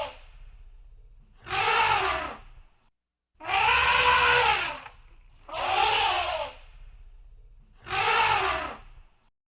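Elephant trumpeting: four loud, about one-second calls roughly two seconds apart, each rising and then falling in pitch.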